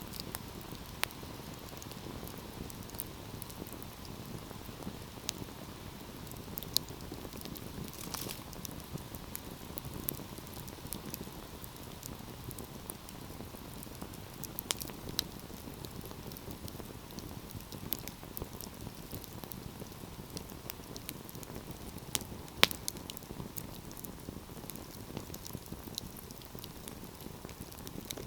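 Wood fire burning, a steady low rush of flames with irregular sharp crackles and pops, the loudest pop about 23 seconds in.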